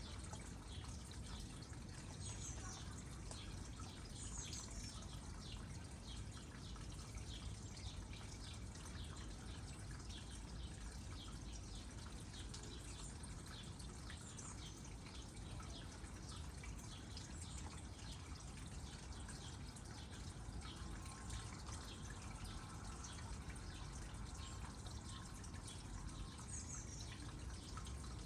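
Water trickling and dripping steadily into a small pond: a quick, continuous patter of drops over a low, even rumble.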